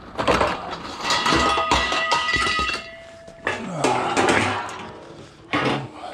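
Scrap metal clanking and clattering as pieces are handled and dropped together, several loud bangs with ringing metallic tones.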